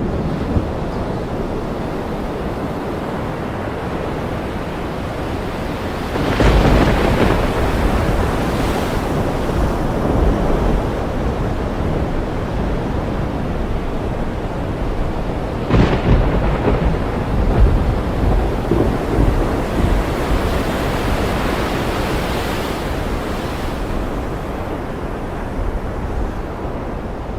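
Thunderstorm: steady rain with thunder, a clap breaking about six seconds in and a sharp crack near the middle, followed by long rolling rumbles.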